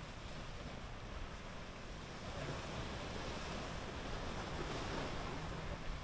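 Waves washing onto a sandy beach, with wind buffeting the microphone. The surf wash swells louder about two seconds in.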